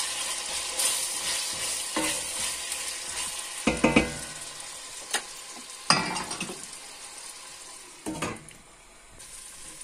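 Diced chicken breast and potato cubes sizzling in oil in a stainless steel pot. A spoon stirs them, knocking and scraping against the pot several times. The sizzle dies down near the end.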